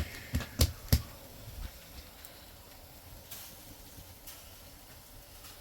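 Four sharp knocks or taps close together in the first second, then only a faint, steady background hiss.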